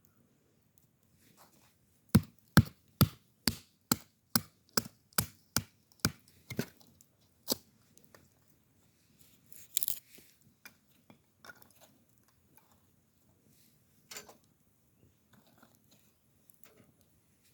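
Rhythmic chopping: about a dozen sharp blade strikes on wood, roughly two or three a second, then a single strike, a brief scraping rustle and a few light knocks.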